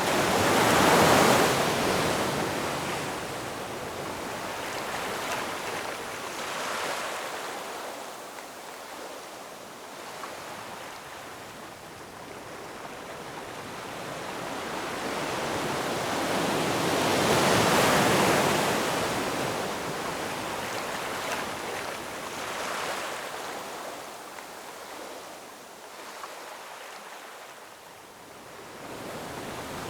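Ocean waves breaking and washing in: a steady hiss of surf that swells and ebbs, with one big wave right at the start and another about halfway through, each followed by a smaller one.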